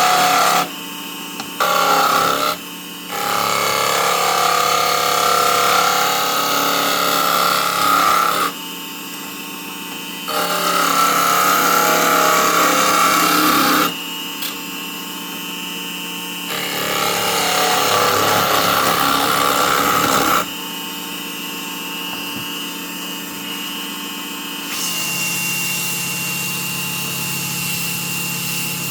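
Small electric wood lathe running with a steady motor hum, while a turning tool cuts into the spinning wood in several stretches of a few seconds each. This is the rough first-pass shaping of the workpiece.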